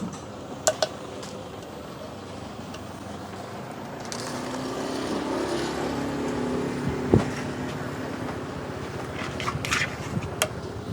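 A motor vehicle passing on the street, its engine rising from about four seconds in and fading away a few seconds later, over a steady street background. A single sharp knock about seven seconds in, and a few light clicks near the start and near the end.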